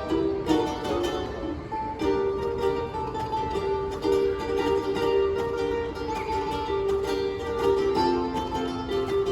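Ukulele music played live: plucked chord strokes in the first couple of seconds, then a melody of longer held notes.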